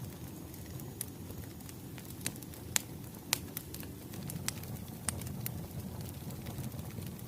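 Wood fire crackling: a steady low rumble under irregular sharp pops and snaps, a few of them louder.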